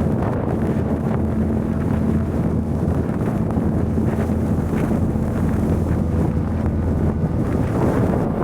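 Blizzard wind buffeting the microphone: loud, steady wind noise with a constant low hum underneath.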